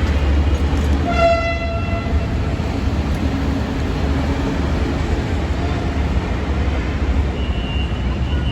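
Dhaka metro train running with a steady low rumble. About a second in, a short pitched horn tone sounds for about a second, and a thin high whine comes in near the end.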